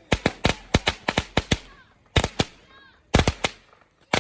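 Firecrackers going off in quick, irregular clusters of sharp bangs, with a dense run in the first second and a half and more groups of close bangs later.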